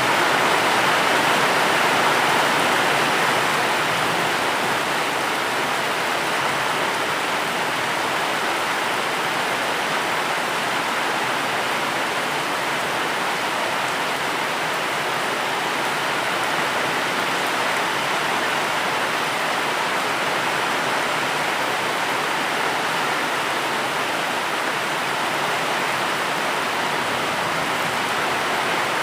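Steady rainfall: an even, unbroken hiss of rain with no distinct drops or thunder standing out.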